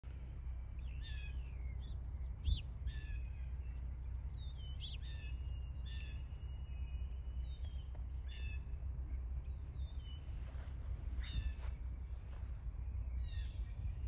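Wild birds calling: short, sharp calls about once a second, some sliding quickly up or down in pitch, over a steady low rumble. A single thump about two and a half seconds in.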